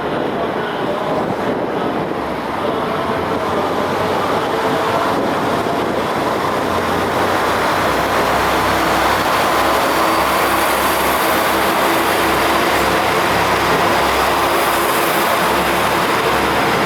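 JR Kyushu A-Train, a converted KiHa 185 diesel railcar, running on the line: a steady mix of engine drone and wheel-on-rail noise that grows a little louder over the first half.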